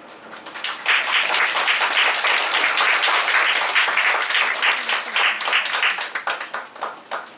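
Audience applauding. The clapping swells within the first second, holds, then thins to scattered claps and stops near the end.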